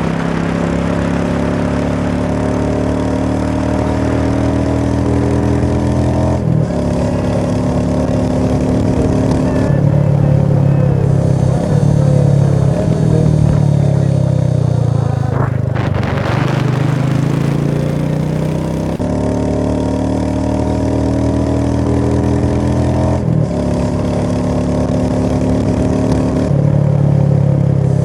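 Vehicle engine running while driving, its pitch falling and rising with speed changes, broken by abrupt jumps where clips are cut together.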